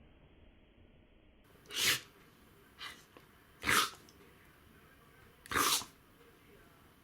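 A dog sneezing in a fit: three sharp sneezes about two seconds apart, with a fainter one between the first two.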